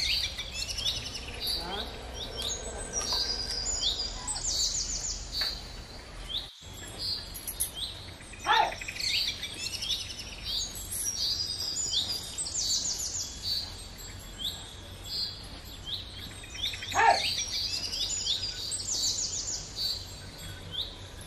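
Small birds chirping continuously in quick, high calls, with a louder call sliding down in pitch twice.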